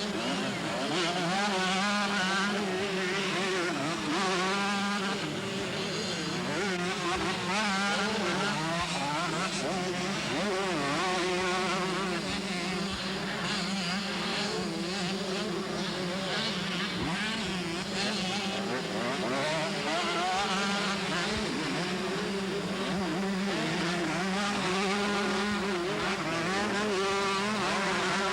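Several 125cc two-stroke motocross bikes racing, their engines revving up and down as they go around the track, with the engine notes overlapping.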